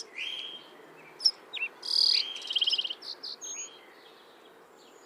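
A songbird singing varied phrases of sharp chips, slurred whistles and buzzy, rapid trills, with one phrase at the start and another about two seconds in.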